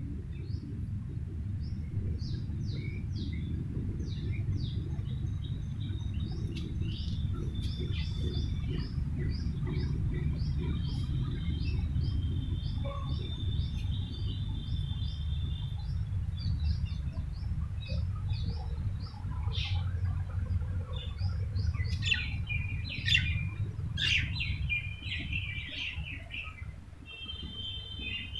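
Small birds chirping and twittering many times, with a few short held trills, over a steady low rumble that eases off about two-thirds of the way through.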